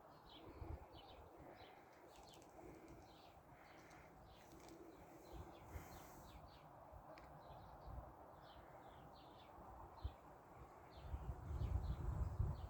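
Small birds chirping faintly, many short calls through the whole stretch. Near the end a low rumble comes in and becomes the loudest sound.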